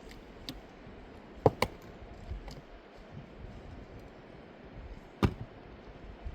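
A few sharp clicks of hard objects knocking together: two close together about a second and a half in, another louder one about five seconds in, with a few fainter ticks between.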